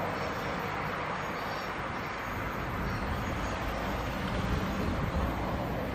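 Vale passenger train moving away on the track: a steady drone from its diesel locomotive with the rumble of the coaches on the rails.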